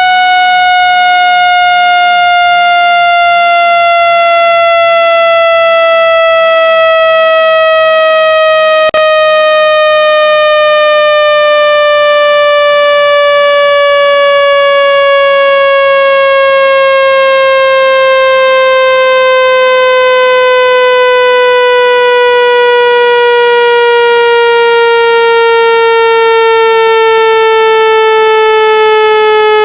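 Electronic speaker-cleaning tone for driving water and dust out of a phone speaker: one loud, buzzy synthetic tone whose pitch falls slowly and steadily, with a brief break about nine seconds in.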